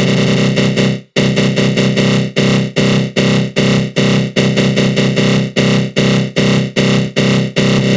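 Synthesized 'attack growl' sound effect: a harsh, buzzing synth tone from the GMS synth in FL Studio Mobile, shaped mainly by a flanger. It drops out briefly about a second in, then pulses evenly about two and a half times a second.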